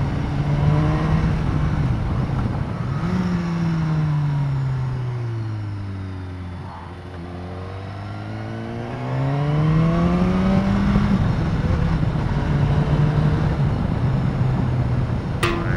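BMW S1000R inline-four engine running under way, with wind rush over it: the revs fall smoothly for a few seconds as the rider rolls off, bottom out about seven seconds in, then climb again as the bike accelerates and settle to a steady note. One short sharp click near the end.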